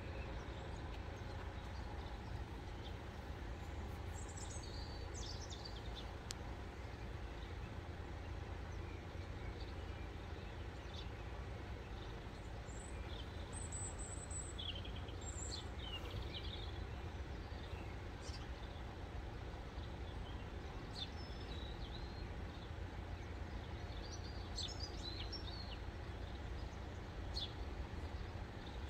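Quiet outdoor background with a steady low rumble, and small birds chirping in short scattered calls, in three little clusters near the start, the middle and the end.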